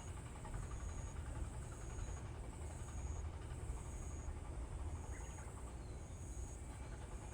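A high-pitched insect chirp, repeating evenly about once a second, over a steady low rumble.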